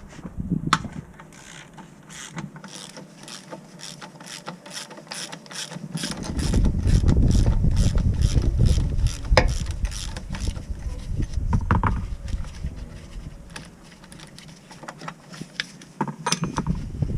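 Hand ratchet wrench clicking in a long run of quick, even clicks as a fastener is worked. A low rumble swells through the middle of the run.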